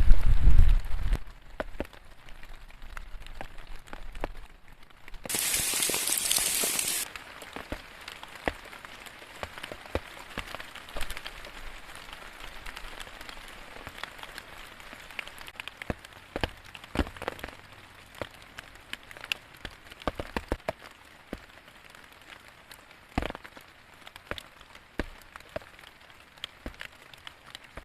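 Rain dripping, with scattered drops ticking sharply on surfaces. A deep rumble fades out about a second in, and a burst of hiss lasts about two seconds soon after.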